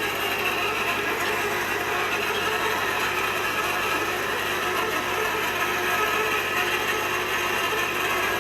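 Manually driven hot tapping machine cutting into a steel pipe: a steady, continuous mechanical sound with no break.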